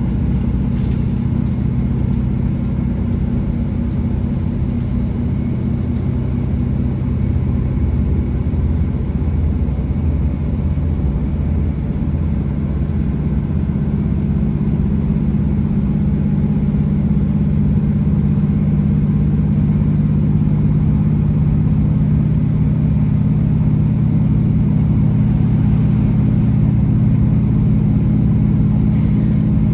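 British Rail Class 165 diesel multiple unit's underfloor diesel engine droning steadily with the train under way, growing somewhat louder and stronger about halfway through.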